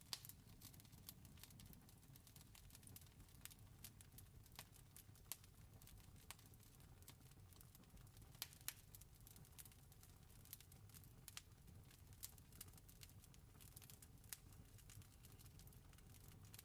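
Campfire crackling faintly, with irregular sharp pops and snaps over a low, steady rumble.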